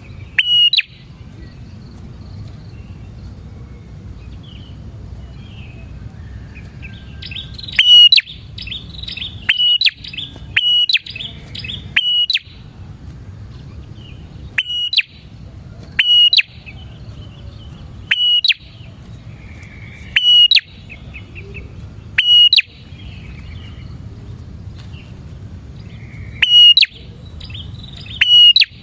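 Bar-winged prinia singing persistently: loud, sharp high notes repeated about every one to two seconds, with quick chattering runs between them, over a faint low rumble.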